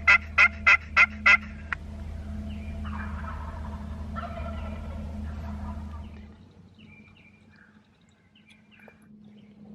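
Wild turkey gobbling: a loud, rapid rattling gobble in the first second or so, then fainter calls. Small birds chirp faintly near the end.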